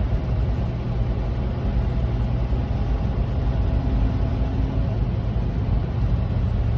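Steady drone of a Kenworth semi truck's diesel engine and road noise heard inside the cab while driving, an even low hum with no change in pitch.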